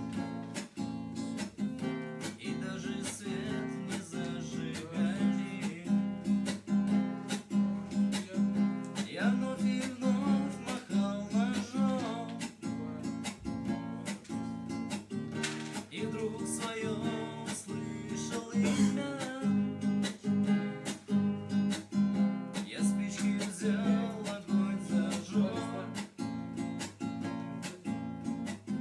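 Acoustic guitar strummed in a steady rhythm, playing the chord accompaniment of a song.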